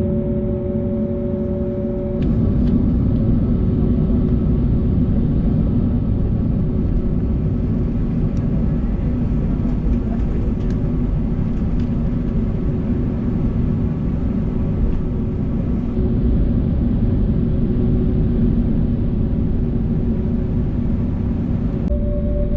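Steady engine and airflow noise inside the cabin of an Airbus A321neo airliner: a low rumble with a few steady humming tones, growing slightly louder about two seconds in.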